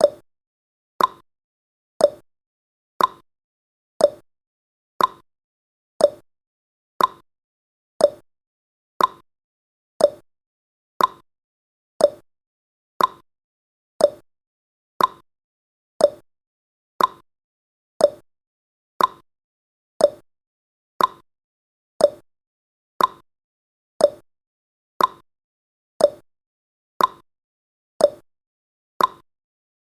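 Clock ticking sound effect for a countdown timer: one short, sharp tick every second, alternating between a higher and a lower tick like a tick-tock.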